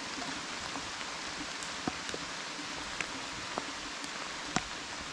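Steady rain falling, an even hiss, with a few sharp ticks of single drops landing close by.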